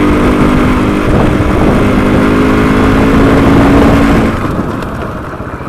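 Off-road rally motorcycle engine running at steady revs while riding, with rushing air noise on the helmet camera; the engine eases off about four seconds in.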